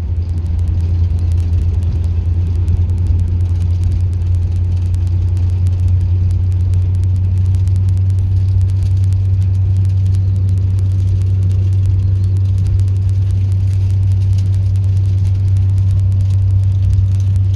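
YaMZ-236 V6 diesel of a TU6A narrow-gauge locomotive running steadily as the locomotive travels, heard from inside the cab as a constant low drone.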